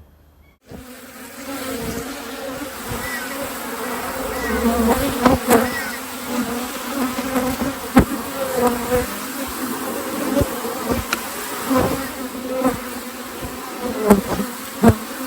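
Honey bees swarming over an overflowing top bar hive, buzzing in a dense, steady hum that wavers in pitch. The hum comes in about a second in, with occasional sharp clicks and knocks over it.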